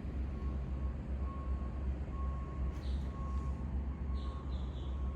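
A vehicle's electronic warning beeper sounding a single-pitch beep about once a second over a steady low engine rumble. A few short bird chirps come in around the middle.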